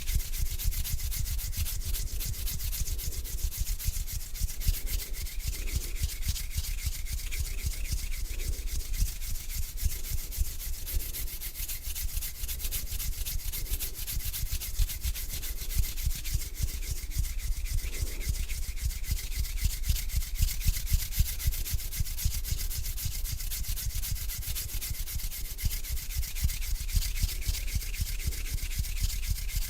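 Hands rubbing together slowly, a continuous dry skin-on-skin friction sound.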